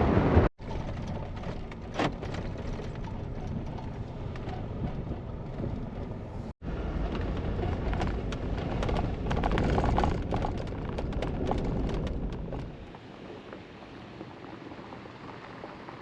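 Off-road Jeep driving down a dirt mountain road: a steady rumble of engine and tyres with gravel crackling. The sound cuts off abruptly twice and drops quieter after about thirteen seconds.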